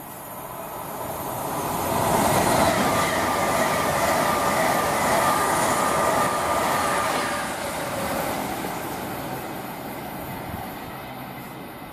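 An Avanti West Coast express train passing through at speed, growing louder as it approaches, with a steady whine over its loudest few seconds, then fading as it draws away.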